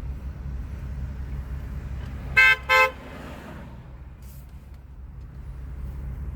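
Car horn honked twice in quick succession, two short blasts, over the steady low rumble of a car.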